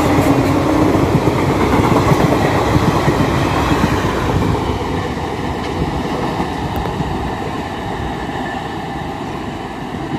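An express train's passenger coaches rolling past at speed, the wheels clattering over the rail joints. The rumble fades steadily over the second half as the train draws away.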